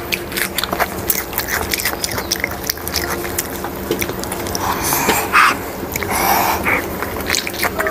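Close-up eating sounds: a person biting and chewing spicy fried chicken off the bone with wet mouth clicks and lip smacks, with a couple of louder, breathier mouth sounds a little past halfway.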